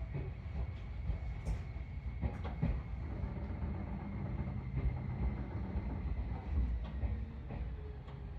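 Seibu 4000 series train heard from inside the car: a low rumble with scattered sharp clacks of wheels over rail joints and points, and a thin steady whine.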